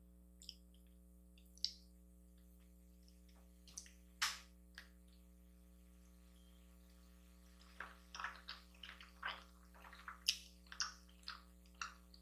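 Close-miked mouth sounds of eating a forkful of shrimp fettuccine Alfredo. A few scattered wet clicks come first, then from about eight seconds in a quick run of moist smacking and chewing clicks, over a faint steady electrical hum.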